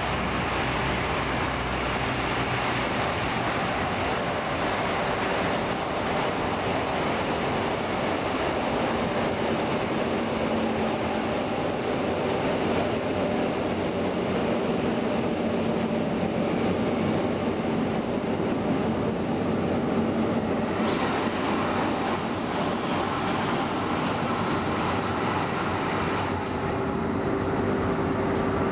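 Stockholm commuter rail class X10 electric multiple unit running along the line, heard from on board: a steady rumble of wheels and running gear with faint, steady motor hum.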